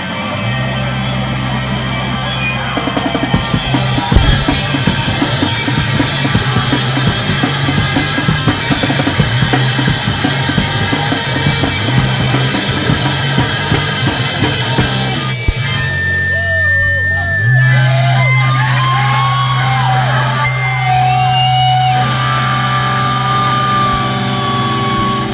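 Live screamo band playing loud: distorted electric guitars, bass and fast drumming. About 15 seconds in the drumming drops away, leaving a held bass note and squealing, gliding guitar feedback.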